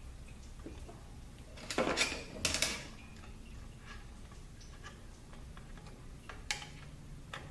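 Metal tools and transmission parts being handled on the bench: light ticks and clinks, two short clattering rattles around two seconds in, and a sharp click near the end, over a steady low hum.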